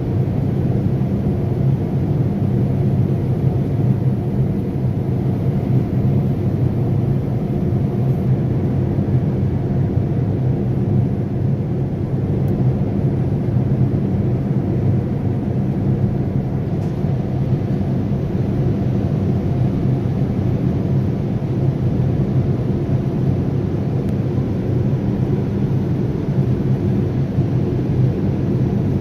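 Steady cabin noise of a Boeing 787-9 airliner in flight: an even low rumble of airflow and engines heard from inside the cabin.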